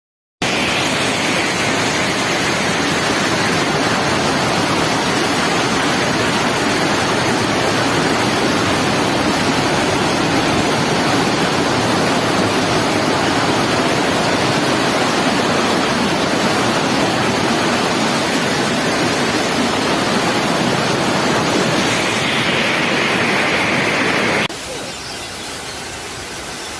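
Heavy rainstorm: a loud, steady roar of torrential rain and rushing water, dropping suddenly to a softer level near the end.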